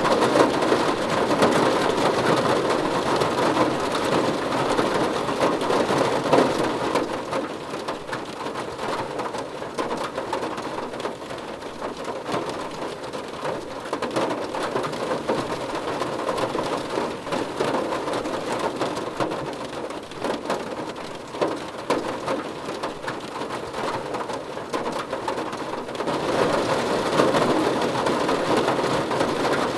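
Steady rain falling and pattering on a surface. It is heavier at first, eases off after about seven seconds, and swells again near the end.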